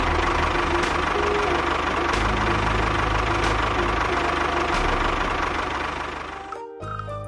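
A small engine running steadily. It fades out near the end as music comes in.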